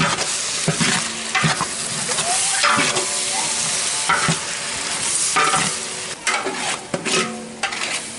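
Onions, tomatoes and green chillies sizzling in hot oil in a large metal pot, while a long metal ladle stirs them, scraping against the pot again and again.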